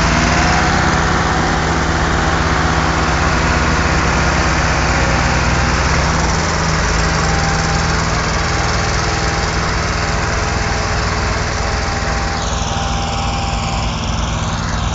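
Tractor engine running steadily and loudly.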